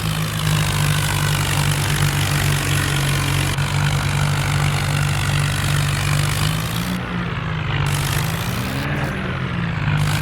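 Tractor diesel engine running steadily, its pitch wavering up and down a little near the end.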